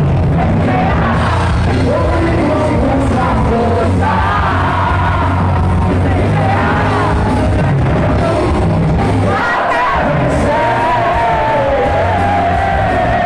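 Live heavy metal band playing, with a singer's voice over the band; the singer holds a long, wavering note in the second half.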